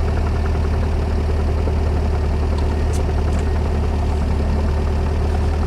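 Volkswagen Baja Bug's engine idling steadily, heard from inside the cab with a constant low drone.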